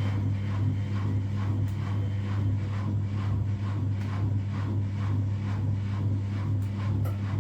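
Front-loading washing machine running: a steady motor hum with a swish repeating about four times a second as the drum turns.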